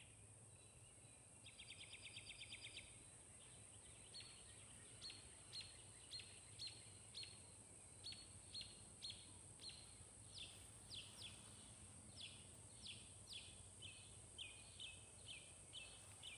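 Faint birdsong: a short rapid trill about a second and a half in, then a long run of short down-slurred chirps, about two a second. A faint steady high-pitched hiss sits underneath.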